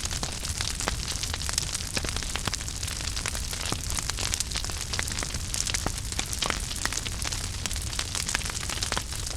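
Wood fire burning in a fireplace: continuous dense crackling and popping over a low rumble, steady throughout.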